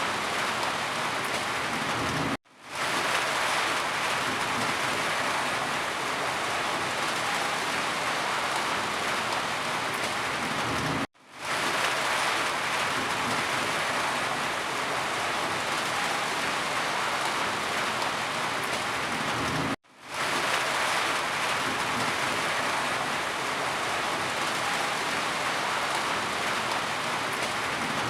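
Steady rain, a dense, even hiss. Three times, about every nine seconds, the sound drops out abruptly to silence and fades back in within about half a second.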